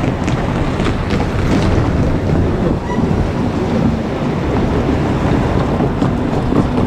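JR Kyushu 817 series electric train running past close by: a steady, loud rumble of wheels on rails, with a few sharp clicks.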